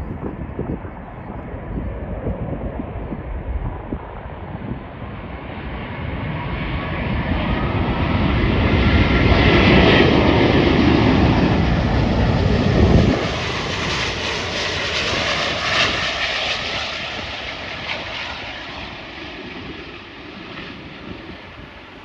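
Jet airliner on landing approach passing over, its engine noise swelling to a peak about halfway through and then fading, with a faint fan whine that drops slightly in pitch as it goes by. Wind buffets the microphone.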